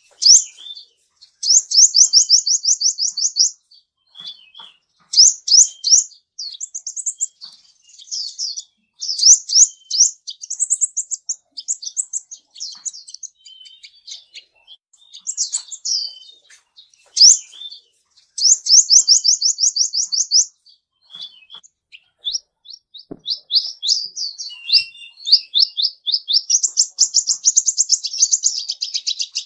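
A songbird singing: fast trills of high, evenly repeated notes, about ten a second in runs of a couple of seconds, broken up by shorter chirps and sweeping notes.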